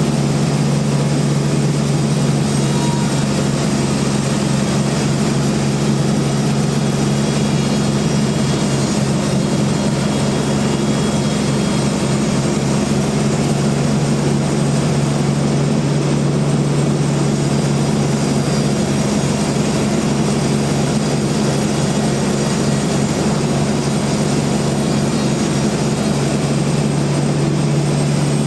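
Large bandsaw sawmill running steadily, a deep even hum from its motor under a constant rush of noise.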